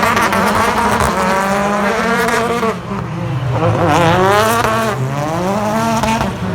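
British Touring Car Championship race cars' turbocharged four-cylinder engines passing at racing speed, more than one engine note at once. The pitch climbs and drops several times as the cars accelerate and shift gear, with a brief dip in loudness a little under three seconds in.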